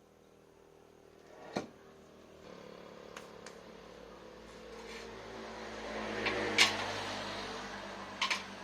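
A steady machine hum starts about two and a half seconds in and grows louder, with a few sharp clicks and knocks over it.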